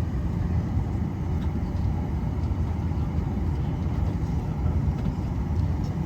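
Airliner cabin noise: the steady low rumble of the engines and airflow heard from a passenger seat.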